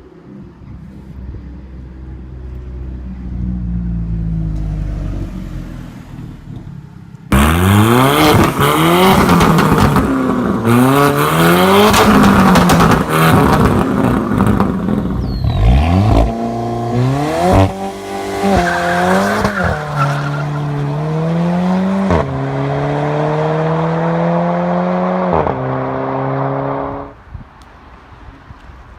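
Four-cylinder car engine pulling gently at first, then suddenly much louder: it revs up and down, then accelerates hard through several upshifts, the pitch climbing and dropping at each shift. It cuts off suddenly near the end.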